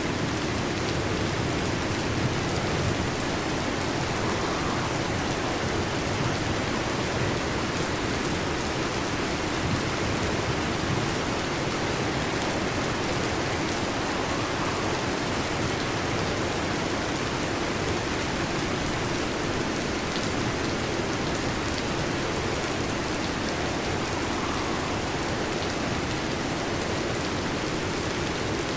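Heavy rain drumming steadily on a metal roof, a dense, even downpour with no thunder clap.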